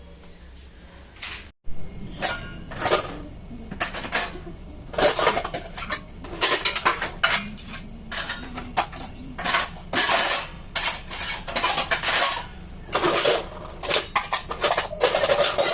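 Metal kitchen utensils and dishes clattering and clinking in irregular bursts, as pots, plates and spoons are handled.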